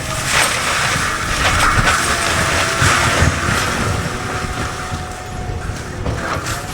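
CAT 299D3 XE compact track loader running a Fecon Blackhawk forestry mulcher, a steady machine roar with scattered cracks and crunches as brush and wood are shredded.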